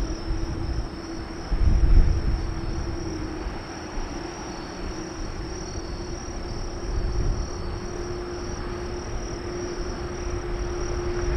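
Jet airliner engines, the Airbus A380's Rolls-Royce Trent 900s, running with a steady hum and a constant high whine, heard at a distance over a low rumble of wind on the microphone that gusts about two seconds in.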